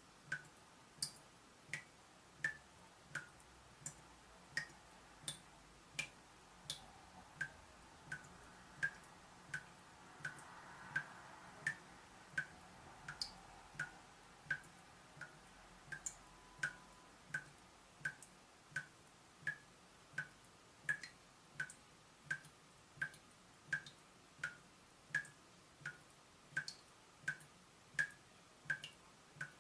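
Leaking tap dripping steadily: a short plinking drop about every 0.7 seconds, in an even rhythm with no let-up.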